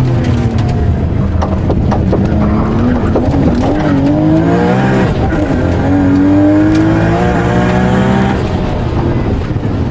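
Nissan Skyline's engine heard from inside the cabin, driven hard. Its pitch rises and falls with the throttle and gear changes, climbs steadily through the second half, then drops away near the end.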